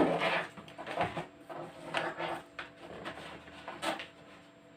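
Cardboard scraping and rustling, with a few light knocks, as a small motorised mechanism is pushed with some effort into a cardboard box. The sound comes in irregular scrapes, the loudest at the very start.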